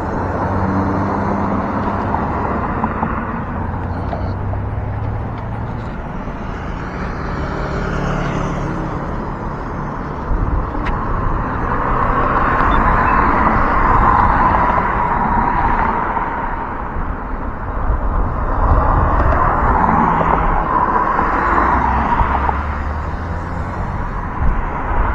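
Wind rumbling on the microphone of a moving e-bike, with road traffic; two cars pass, each swelling and then fading.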